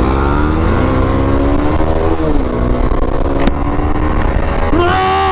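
Bajaj Dominar 250's single-cylinder engine accelerating hard through the gears: the pitch rises, drops at an upshift about two seconds in, then climbs again, with another quick change near the end. A brief click about three and a half seconds in, and wind rumble underneath.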